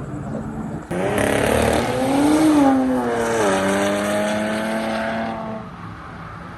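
A car engine revving hard as the car accelerates away: its pitch climbs, drops once at a gear change, then holds and fades near the end.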